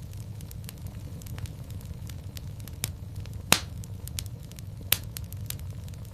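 Wood fire burning in a fireplace, crackling steadily over a low rumble of flame, with two louder pops about halfway through and near the end.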